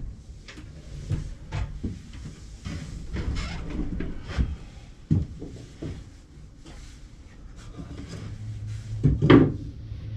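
Irregular knocks and clunks of wooden pieces and tools being handled on a workshop bench, with the loudest clunk about nine seconds in. A low steady hum starts about eight seconds in.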